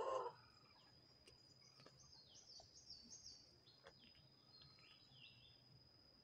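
Near silence with faint bird chirps in the background: quick runs of short, high, falling chirps about two seconds in and again near five seconds.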